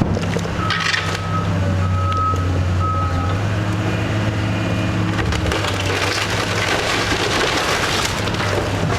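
A heavy demolition machine's diesel engine running steadily, with a backup alarm beeping three times in the first few seconds. In the second half comes the crunching and splintering of wood as the house's frame is torn down.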